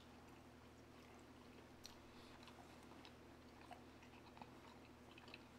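Faint close-miked chewing of pepperoni pizza by two people, with a few soft mouth clicks now and then over a steady low hum.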